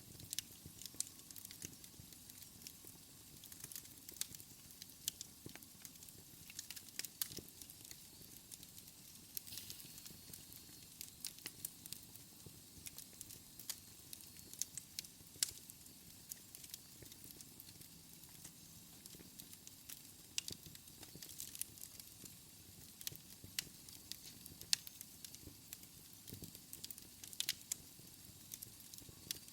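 Wood fire crackling in a fireplace: irregular sharp pops and snaps over a faint hiss.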